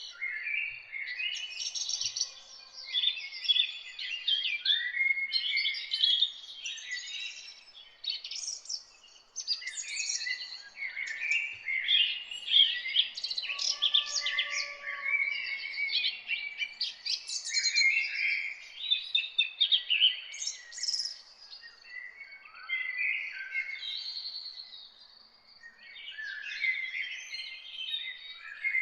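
Songbirds singing and chirping together: a dense chorus of quick, overlapping high chirps and trills.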